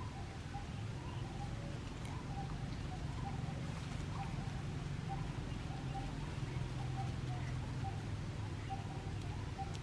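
A bird calling in the background, a steady series of short notes at one pitch, about two a second, over a low steady rumble.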